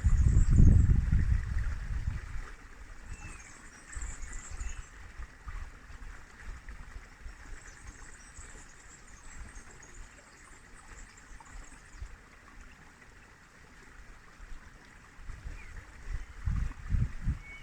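River water flowing steadily, with a loud low rumble in the first two seconds and again near the end.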